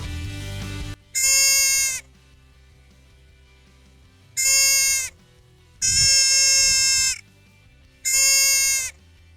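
A sheep bleating four times, the third bleat the longest, after a loud burst of noise in the first second.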